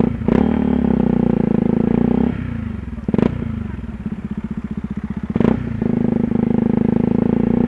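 Yamaha WR125R's 125cc single-cylinder four-stroke engine running under way: held at steady revs for about two seconds, easing off to a lower note for about three seconds, then pulling steadily again. Sharp cracks cut through about three and about five seconds in.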